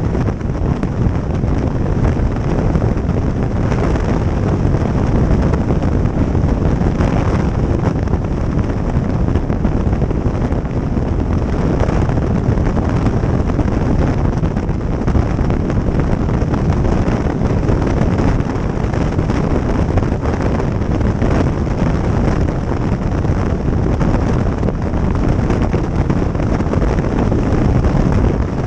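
Steady, loud wind rushing over the microphone of a camera riding on a moving motorcycle, with road and engine noise beneath it.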